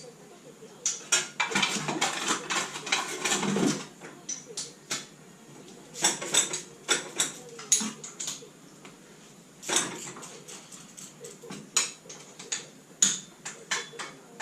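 Metal tools and engine parts clinking and knocking in short bouts of rapid clatter, with quieter pauses between.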